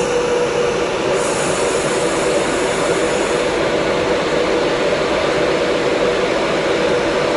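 A train running through the station: a loud, steady rush of wheel and rail noise with a steady hum underneath.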